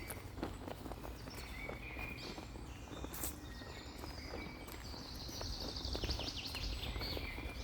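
Footsteps crunching on a forest floor among birds chirping, with a bird's falling trill a little after halfway through.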